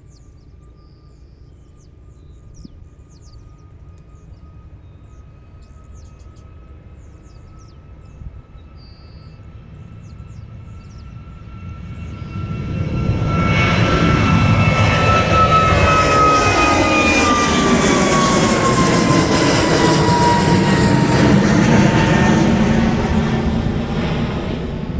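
Airbus A320neo jet airliner taking off, its turbofan engines heard first as a faint steady whine, then loud about halfway through as it passes at takeoff power. The whine drops in pitch as it goes by, and the sound starts to ease near the end.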